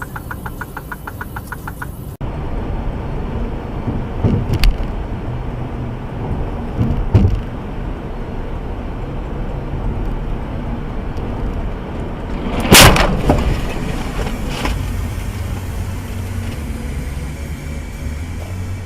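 Car driving noise picked up by a dash camera, a steady rumble with a few knocks, and one loud bang about two-thirds of the way in, typical of a collision.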